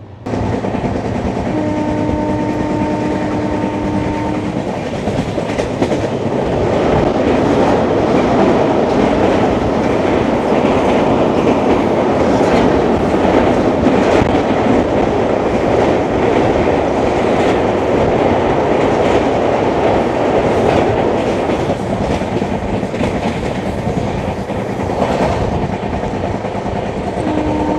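Double-decker express train running at speed, heard from the open coach door: wheels clattering over the rail joints under a loud rush of running noise that grows louder after the first few seconds.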